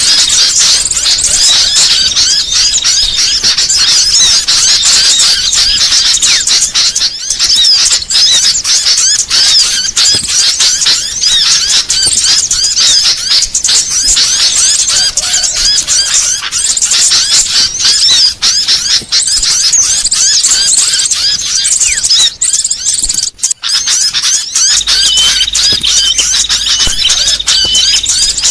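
Bird-lure recording of many small songbirds calling at once: a loud, dense tangle of high, rapid chirps and trills with no let-up, except for a brief break about three-quarters of the way through.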